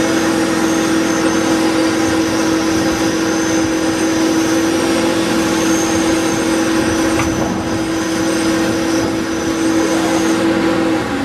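Electric winch motor running steadily under load with a constant whine, then switched off near the end, its pitch falling as it spins down.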